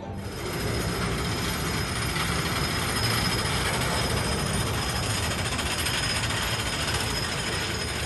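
Amusement ride running: a steady, dense mechanical rattle that rises slightly about half a second in.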